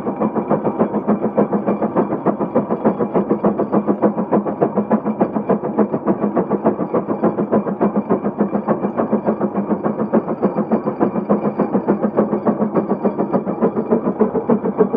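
Case 150 steam road locomotive working hard under load pulling a plow, its exhaust chuffing in quick, even beats, about six a second.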